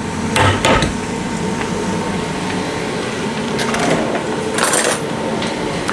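Carrots frying in a pan with a steady sizzle, and a few scrapes and knocks of a utensil as they are stirred.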